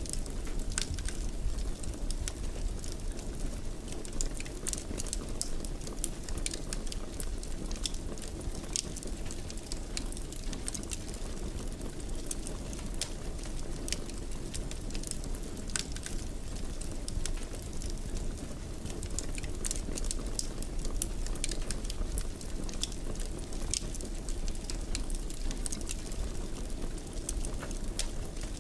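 Fire burning in a fireplace: a steady low rumble of the flames with frequent, irregular small crackles and pops.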